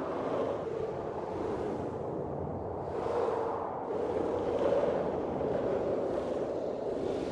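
Blizzard wind blowing in gusts: a steady rushing that swells and eases every few seconds.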